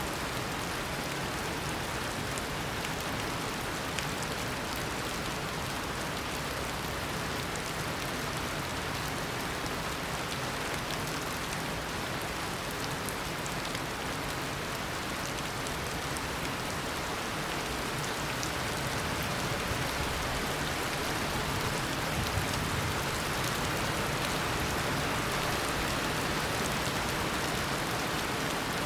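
Steady heavy tropical rain, a dense even hiss of rainfall with scattered individual drops pattering on surfaces.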